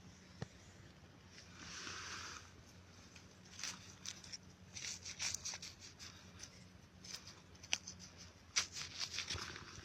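Irregular rustling and crackling, like forest-floor litter being stepped on or handled, with a short soft hiss about two seconds in.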